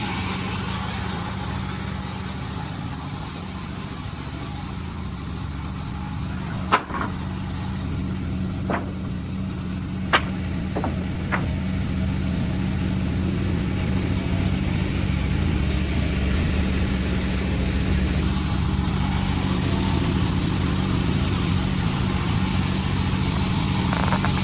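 Panda36 sawmill running steadily with a low machine hum, with a few sharp knocks about seven to eleven seconds in.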